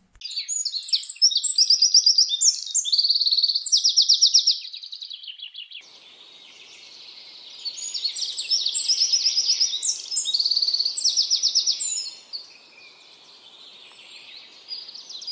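Songbirds singing: rapid high trills and chirps in two long spells, with quieter song between them.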